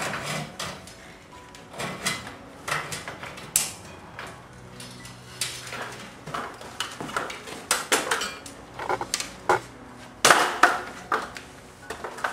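Irregular metallic clinks, clanks and rattles of a steel safety cable being handled and fed through a garage door extension spring and its brackets, loudest near the end.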